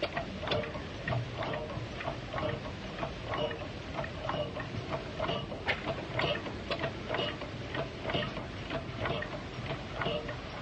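A slow-running vintage engine at a steady pace, giving a regular knock about twice a second.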